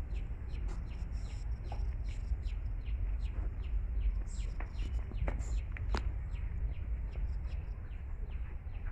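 Birds chirping in many quick, short calls scattered throughout, over a steady low rumble from a handheld phone being carried.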